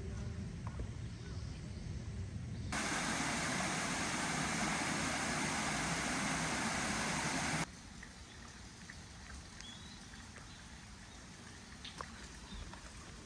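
Rushing water of a mountain stream, an even loud hiss that cuts in about three seconds in and stops abruptly about five seconds later. Quieter stretches either side carry low rumble, scattered clicks and a short bird chirp.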